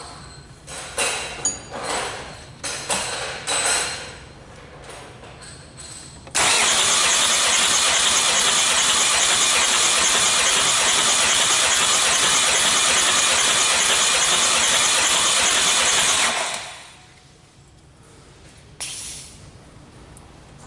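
A D4CB 2.5-litre four-cylinder diesel turned over on its starter for about ten seconds during a compression test: a loud, steady whir that starts and stops abruptly. Before it, a run of metallic clicks and knocks; near the end, one short burst of noise.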